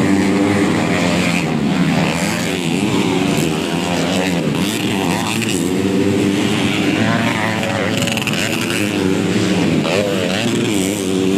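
Several underbone motorcycles racing on a motocross track, their engines revving up and dropping back again and again as the riders work the throttle and gears, with several engine notes overlapping.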